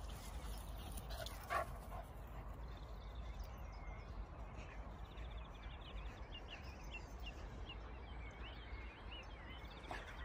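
A dog gives one short bark about a second and a half in, over a low steady rumble. A run of faint, high bird chirps follows through the second half.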